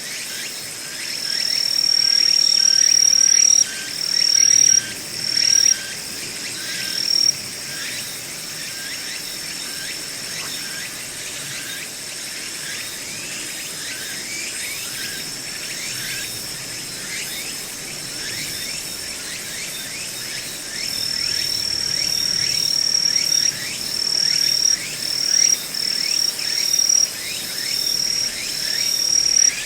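Insects singing: a continuous high trill that swells into louder phrases a second or two long, over a steady series of short, lower chirps repeating about twice a second.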